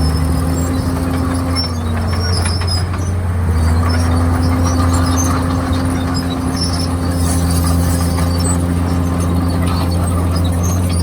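Komatsu D51PX bulldozer's diesel engine running steadily. Its pitch sags briefly about two seconds in, as under load, then recovers. Scattered high squeaks and clinks come from the machine's tracks.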